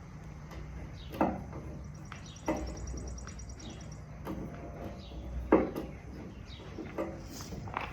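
Hand tool work on metal: scattered clicks and knocks, three sharper ones about a second, two and a half and five and a half seconds in, as a thread is cut by hand with a tap.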